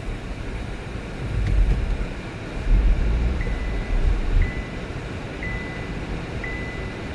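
Low rumble with gusts of wind-like buffeting. About halfway through, a car's electronic warning chime starts: a single high beep repeating about once a second.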